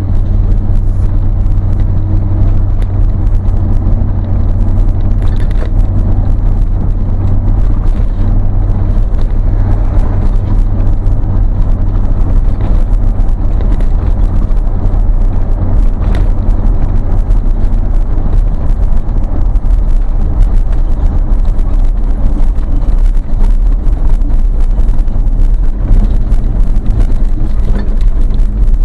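Vehicle engine and exhaust running at a steady cruise, heard from inside the cab as a deep, continuous drone with road noise and no marked changes.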